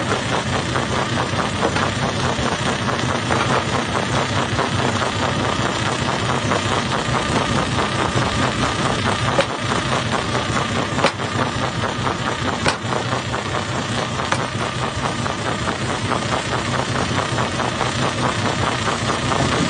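Jaw crusher running steadily, a dense mechanical din, with a few sharp knocks of rock inside it about halfway through.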